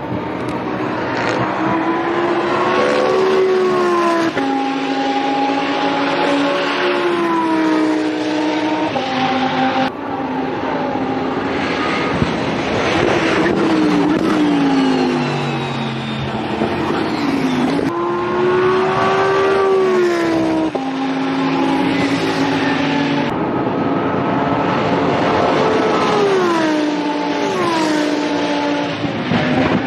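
Lamborghini Essenza SCV12's V12 engine at high revs on track. The pitch climbs and drops sharply at each gear change several times, with a long falling stretch in the middle as the car slows and downshifts.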